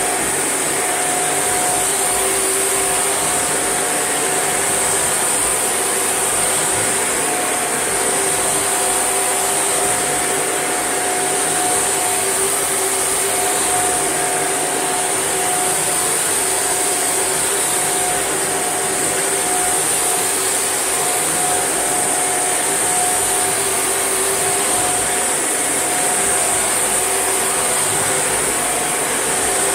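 Shark NV801UK upright vacuum cleaner running steadily: a constant high whine over a lower two-note hum.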